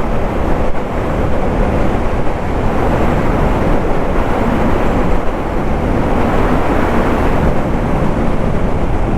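Suzuki motorcycle riding at steady speed on a gravel highway: a constant rush of wind over the rider-mounted microphone with the engine and tyre noise running beneath it.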